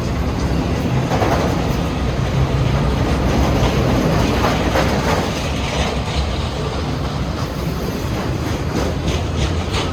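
Freight cars of a long Union Pacific train rolling past at steady speed, their wheels running on the rails.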